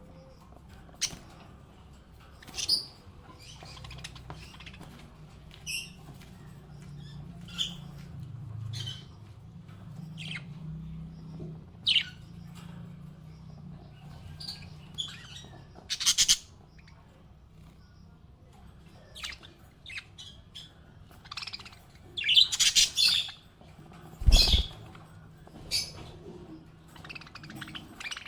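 Budgerigars chirping and squawking in short, scattered calls, busier and louder for a moment near the end. A single dull thump near the end.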